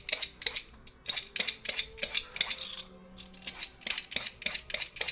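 Potato peeler scraping the skin off a young long squash (bottle gourd) in quick repeated strokes, about four a second, with two brief pauses.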